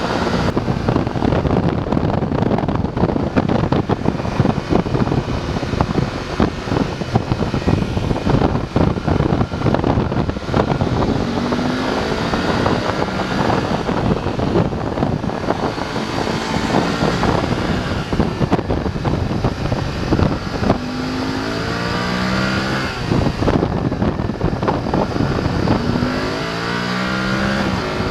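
BMW F 850 GS's parallel-twin engine running under riding load. Its pitch rises several times as it accelerates through the gears, over a steady rush of wind noise.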